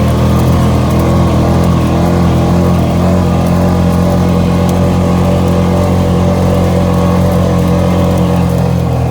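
ATV engine running at a steady, unchanging speed, loud and close.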